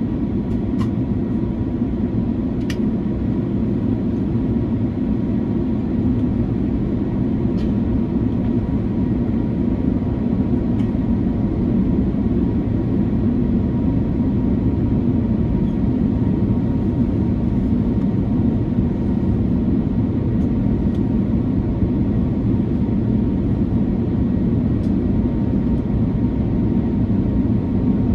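Steady low drone of airflow and engines heard inside the cabin of an Airbus A330-300 with Rolls-Royce Trent 700 engines during its descent, with a faint steady tone above it and a few light clicks.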